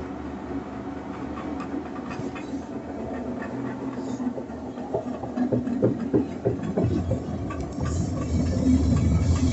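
Electrolux LT10B top-loading washing machine running with a steady low hum. About halfway through comes a run of rapid knocks lasting a couple of seconds, and the machine gets louder near the end.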